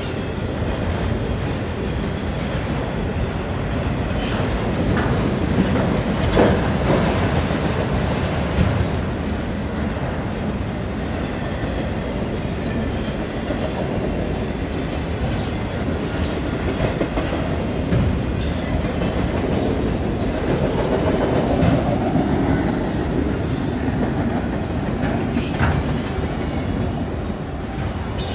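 Freight train of enclosed autorack cars rolling steadily past at speed: a continuous rumble of wheels on rail, with occasional sharp knocks as the cars go by.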